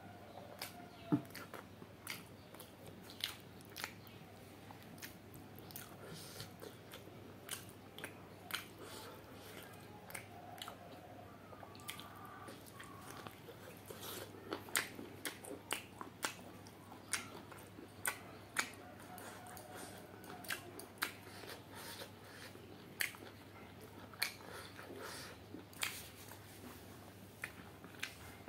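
Close-up chewing of chicken curry and rice: irregular wet mouth clicks and smacks, some loud, at times several a second.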